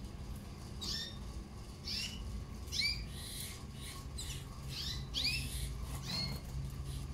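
Canaries giving short, downward-sweeping chirping calls, about one a second at irregular intervals.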